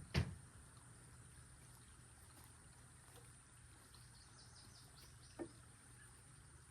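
A sharp knock just after the start, the loudest sound, and a fainter knock about five seconds in, over quiet outdoor background. A short run of high chirps comes around four seconds in.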